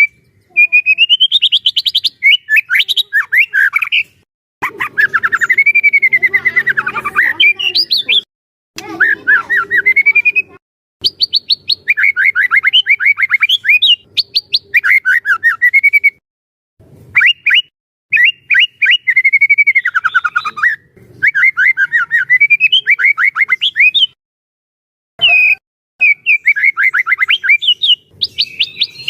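White-rumped shama (murai batu) singing loudly and continuously in a long run of varied phrases: fast repeated trill notes and sweeping whistles, broken by brief pauses.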